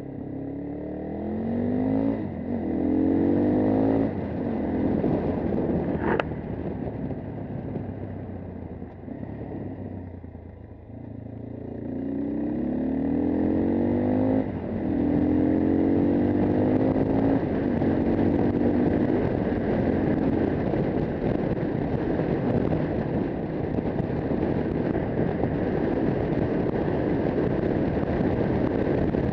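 A single-cylinder AKT TT 250 Adventour motorcycle engine accelerating up through the gears, its pitch climbing and dropping back at each shift, a few seconds in and again from about twelve to seventeen seconds. After that it cruises steadily, with rushing wind on the microphone.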